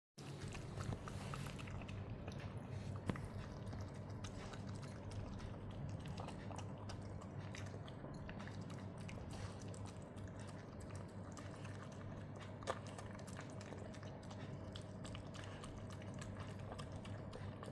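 A dog chewing and eating a bowl of soft boiled meat and vegetables, with many small wet clicks and smacks, over a low steady hum. Two sharper clicks stand out, about three seconds in and near thirteen seconds.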